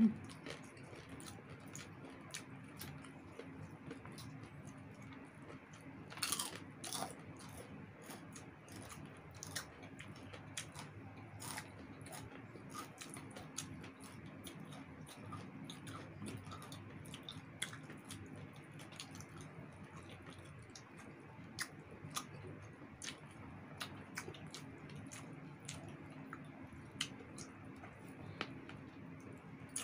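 Close-miked eating sounds of roast chicken and crispy fried chicken skin: irregular biting, chewing and crunching with small wet mouth clicks, a denser run of crunches about six seconds in, over a faint steady low hum.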